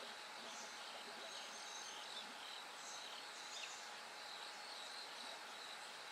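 Bell crickets singing in a faint, steady chorus of high, ringing chirps over soft background hiss. A brief falling call cuts through about halfway.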